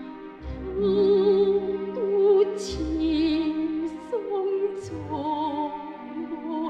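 Operatic solo singing with a wide vibrato over an orchestral accompaniment of sustained chords and a few deep bass notes.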